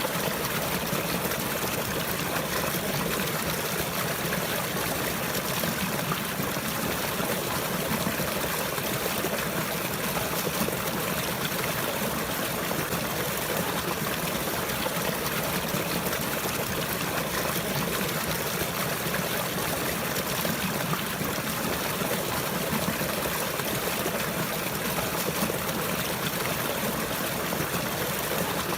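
Running water flowing steadily, with no breaks.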